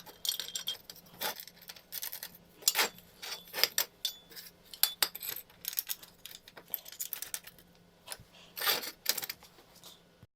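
Irregular clinks and rattles of small metal parts being handled, over a faint steady hum.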